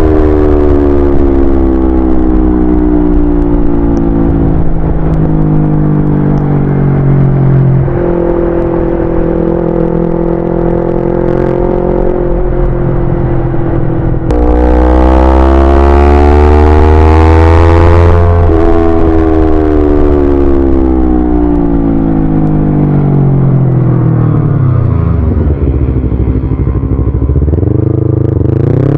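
Yamaha YZF-R25 parallel-twin engine under way. Its note falls slowly as the bike slows, with a gear change, then it opens up about halfway with a climbing pitch. It winds down steadily to a low note and revs up sharply again at the very end.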